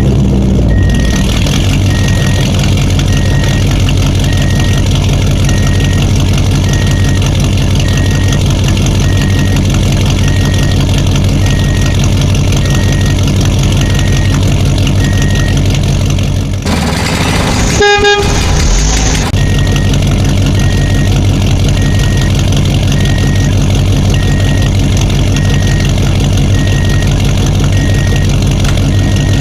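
A heavy vehicle's engine running steadily, with an evenly repeating beep like a reversing alarm, about one beep every three-quarters of a second. About 17 seconds in, the engine sound drops away and a horn honks loudly for a couple of seconds, then the engine and beeping carry on.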